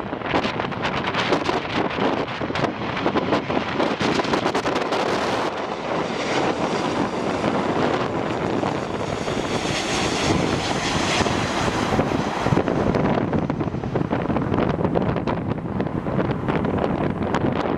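Strong wind buffeting the microphone in constant gusts. Through the middle, a jet airliner's engine noise passes, rising and fading.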